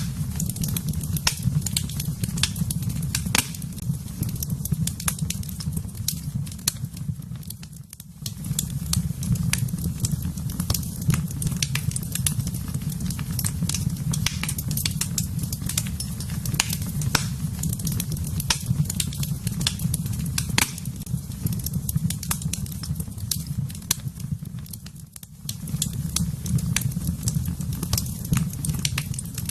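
Fire in a fireplace crackling, with frequent sharp pops over a steady low rushing sound. The low rush drops away briefly twice, once about eight seconds in and again near the end.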